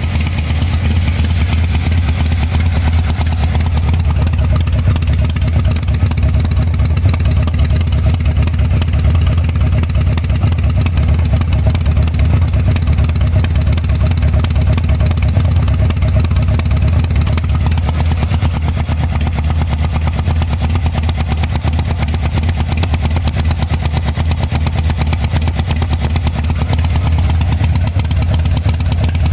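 1985 Harley-Davidson Sportster's V-twin engine running steadily, with its rear cylinder misfiring.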